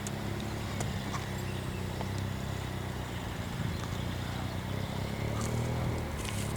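Aircraft engines running with a steady low hum, with a few faint clicks over it.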